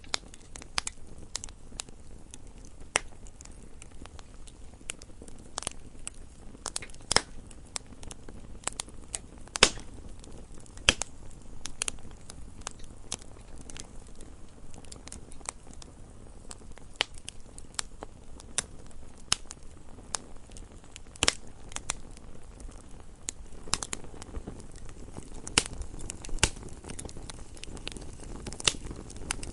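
Wood fire burning in a fireplace: irregular crackling and sharp pops of burning logs over a low steady rumble of the flames, with a few louder pops standing out.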